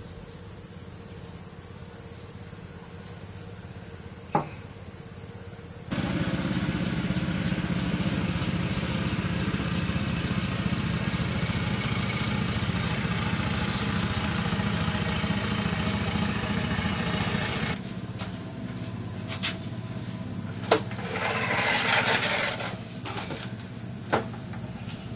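A small engine running steadily for about twelve seconds, starting and stopping abruptly, followed by a few sharp clicks and a short rustling burst.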